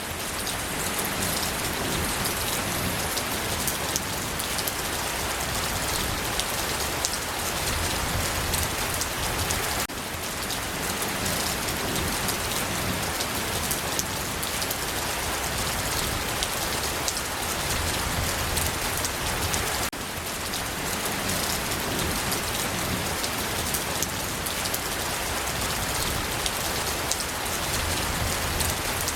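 Steady rain falling on a surface: an even rushing hiss laced with countless small drop ticks, dipping briefly about ten and twenty seconds in.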